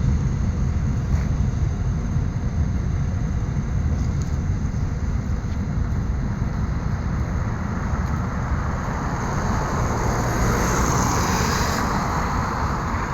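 Freight train rolling past, its wagon wheels making a steady low rumble on the rails. A hiss swells from about nine seconds in and eases off near the end.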